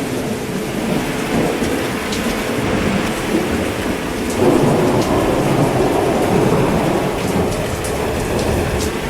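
Steady heavy rain falling, with a roll of thunder that swells up about four and a half seconds in and fades out over the next few seconds.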